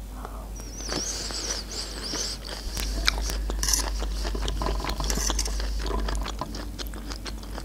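Close-miked chewing of a mouthful of canned sweet corn kernels, with many small wet clicks and smacking mouth sounds. A fork scoops and scrapes kernels on the metal serving tray.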